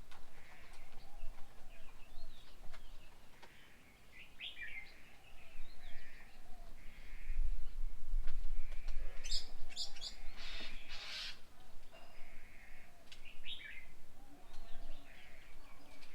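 Several wild birds chirping and calling, short notes repeating throughout, with a cluster of harsh, noisy calls past the middle and a low rumble a little before it.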